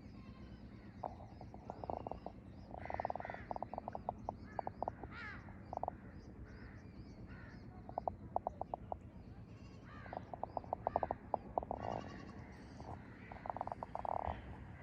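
Harsh animal calls in short, rapid-pulsed runs, repeating every few seconds, with smaller bird chirps and whistles higher above them.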